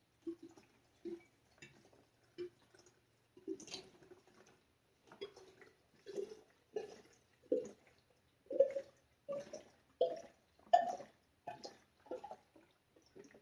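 Liquid glugging out of a jug as it is poured, in short gurgles that come faster and louder after the first few seconds.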